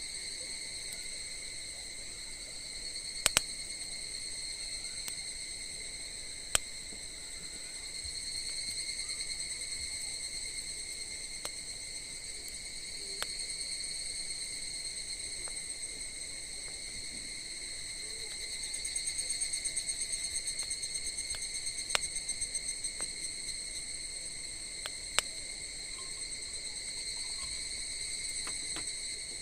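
Insects chirring in a steady, high, even tone, with about five sharp pops from burning wood in a campfire.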